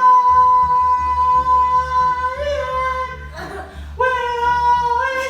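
A girl singing two long held notes, the first lasting about three seconds and the second starting about a second later after a short break.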